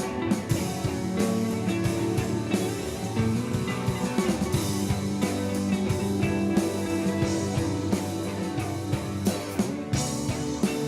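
Alternative rock band playing a song: guitar and bass over a drum kit, at a steady level.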